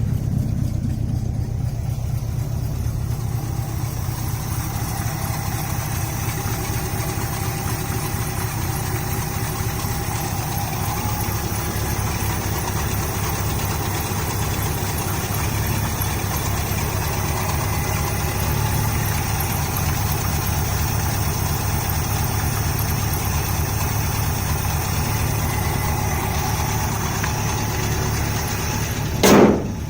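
1975 International 150 pickup engine idling steadily just after a cold start, made with one pump of the pedal and no choke. A brief, louder sound cuts in about a second before the end.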